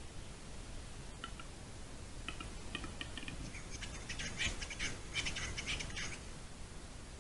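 Western capercaillie cock singing its display song: separate clicks that come faster and faster, turning into a scraping, whetting phrase of about two seconds.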